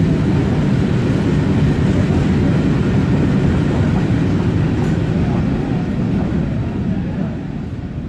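Goods train rolling past, a steady low rumble of wagons on the track that eases off near the end as the train draws away.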